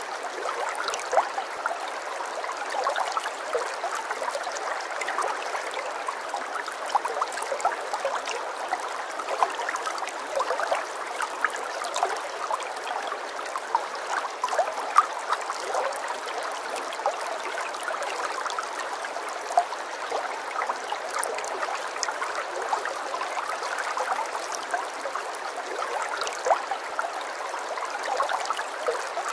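Running water trickling and babbling steadily, with a constant splashy hiss and many small droplet sounds.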